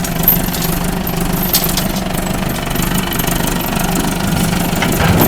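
Tractor engine idling steadily, with two brief sharp knocks, one just after the start and one about a second and a half in.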